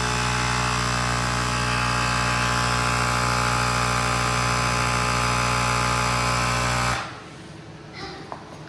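Bergmann portable tyre inflator's electric compressor running with a steady drone, which cuts off abruptly about seven seconds in.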